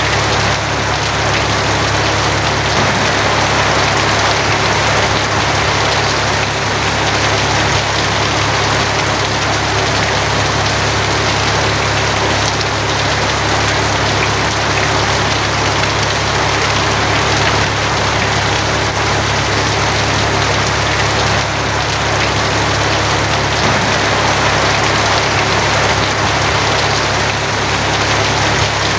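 Heavy rain pelting a tin roof in a steady, even patter, with a steady low hum underneath.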